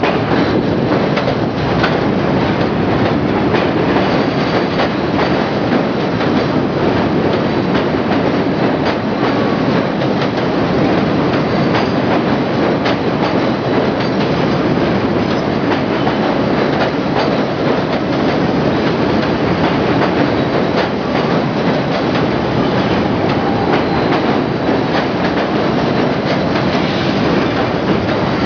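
R68-series New York City Subway train running steadily, its wheels clicking over rail joints.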